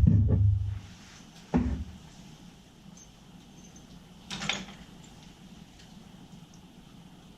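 Two dull thuds about a second and a half apart, the first the louder and longer, then a short scraping sound about four seconds in.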